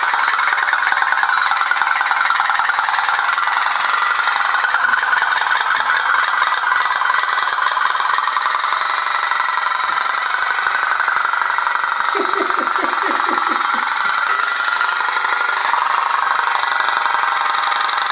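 Candle-powered pop-pop (putt-putt) boat running on water, its boiler popping in a fast, steady putt-putt rattle.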